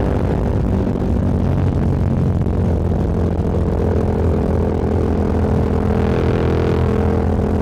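Motorcycle engine running at a steady cruising pitch, with wind noise on the microphone; a hiss swells briefly about six seconds in.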